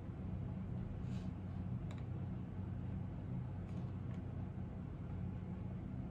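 A few scattered, soft computer-keyboard keystrokes over a steady low hum, with only four or so clicks in the stretch and no run of continuous typing.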